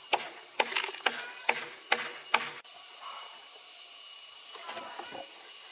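A quick series of about six sharp knocks in the first two and a half seconds, with a few fainter knocks near the end, over a steady high hiss.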